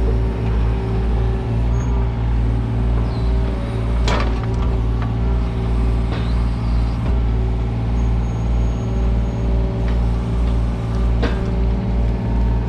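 Kubota U55-4 mini excavator's diesel engine running steadily, with sharp knocks about four seconds in and again near the end.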